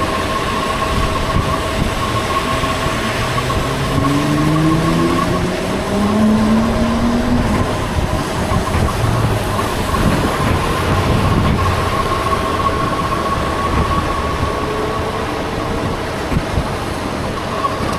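Wind and road noise of riding through the rain, with a steady whine throughout and a whine that rises in pitch from about three to seven seconds in.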